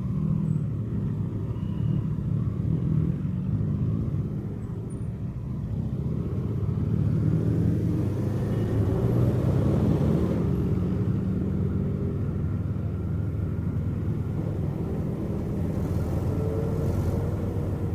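Kawasaki Eliminator's parallel-twin engine running under way, a steady low rumble whose pitch shifts with road speed, easing off slightly about four to six seconds in and picking up again after.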